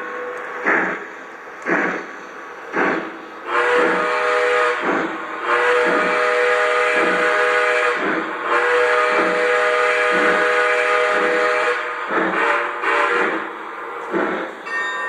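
Sound system of an O gauge Southern Pacific model steam locomotive: steam chuffs about once a second, with the chime whistle blown in three long blasts from about three and a half seconds in until about twelve seconds.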